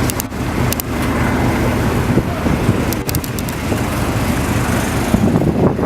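Yacht's engines running at low speed while the boat is manoeuvred out of a tight berth: a steady low drone with a noisy hiss over it and a few faint clicks.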